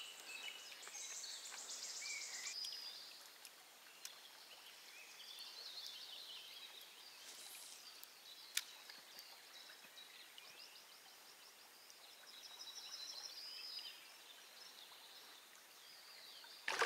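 Quiet outdoor background with faint birds chirping and trilling on and off, and one sharp click about halfway through.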